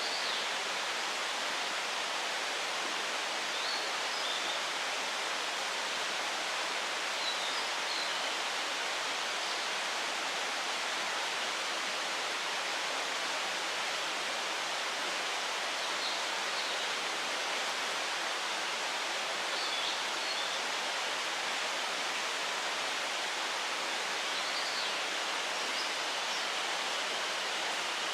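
Steady rushing outdoor noise, like flowing water, with brief faint high chirps every few seconds.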